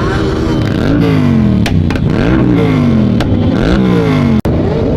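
Motorcycle engines revving: the engine pitch jumps up and slides back down three times, about a second apart, over a steady engine drone. The sound cuts out for an instant about four seconds in.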